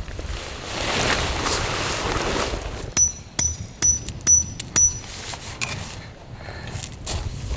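Five sharp metallic clinks with a short high ring, about half a second apart, after a brief swell of rustling noise.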